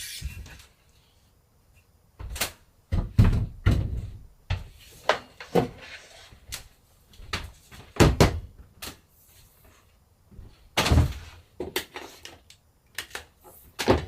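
Irregular knocks, clunks and clicks of hard objects being handled and set down during screen-printing plate-making work. A quiet stretch of about two seconds comes first, and a loud clunk falls about eleven seconds in.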